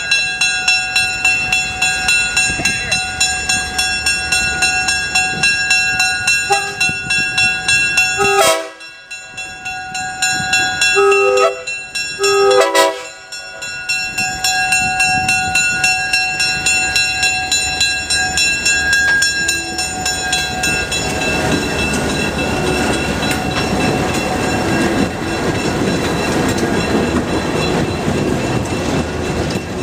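A train moving along with a steady rhythmic beat of about two to three pulses a second, with several short horn blasts in the middle. The rhythm then carries on under a fuller rumble.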